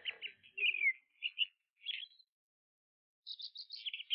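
A small bird chirping in scattered phrases: quick trills and short high notes that slide downward, with pauses between.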